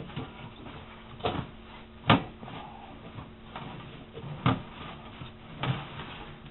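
Clunks and scraping inside a metal tin stove as fallen perlite and burnt sawdust are dug out of it, with about four sharp knocks, the loudest about two seconds in.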